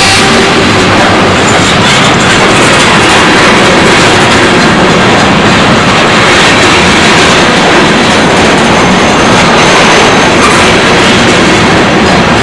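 Freight train of covered hopper cars rolling past at close range: a loud, steady noise of the cars' steel wheels running over the rails.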